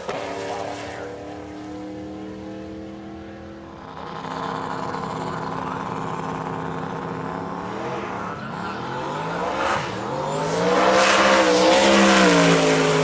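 Drag race car engines running at a fast idle, then revving about ten seconds in. The pitch dips, climbs and wavers, and the sound is loudest near the end.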